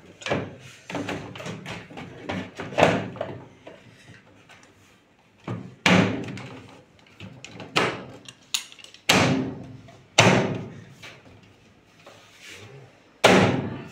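A series of knocks and clunks of hard objects being handled, with four louder bangs that ring briefly, about six, nine, ten and thirteen seconds in.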